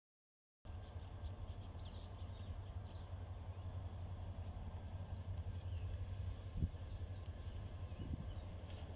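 Small birds chirping in short, scattered high calls over a low steady outdoor rumble, with a single soft thump about two-thirds of the way through.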